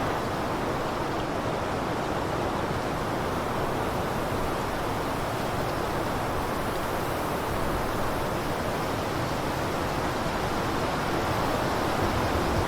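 Blizzard wind blowing steadily, an even rushing noise without gusts or breaks.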